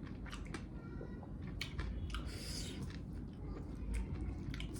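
A person chewing meat with wet mouth clicks and smacks, and a short breath about two seconds in.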